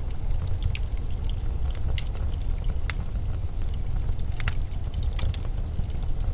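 Steady low rumble of winter wind, with scattered sharp little clicks and crackles at irregular moments over it.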